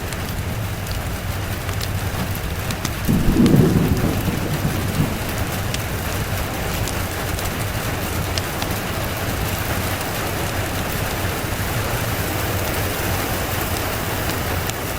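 Steady rain falling, with a low rumble of thunder about three seconds in that swells for roughly a second and fades.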